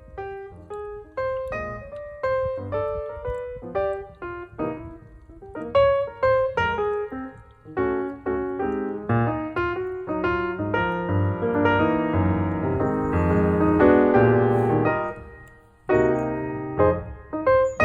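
Background piano music: a melody of separate struck notes that thickens into fuller chords, with a short pause about fifteen seconds in before it picks up again.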